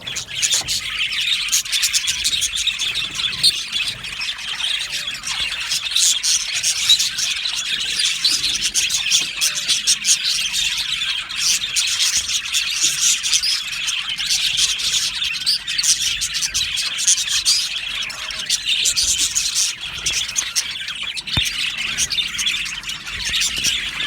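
A colony of budgerigars chirping and warbling together, a dense unbroken chatter of many overlapping calls.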